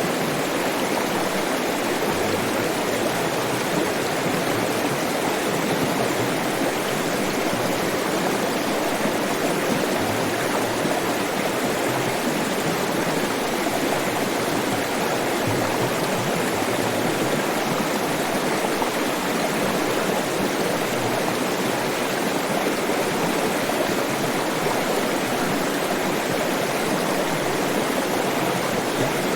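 Flowing water: a stream rushing in a steady, even wash.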